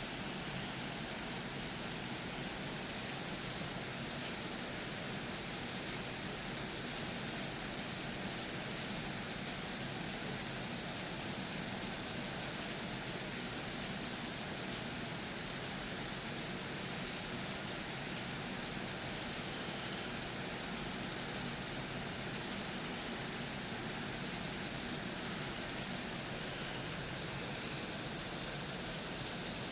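Steady, even hiss with no distinct events or changes.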